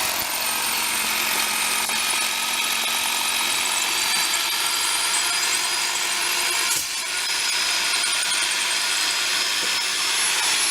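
Power drill boring holes into the house's concrete to take steel rebar dowels that will tie the new walkway slab to the house, a steady high-pitched whine with a short break about seven seconds in.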